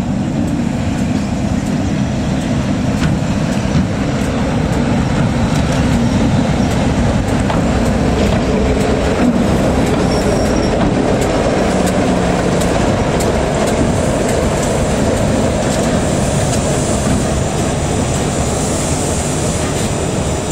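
A train running along the track, a steady, loud rumble of wheels on the rails.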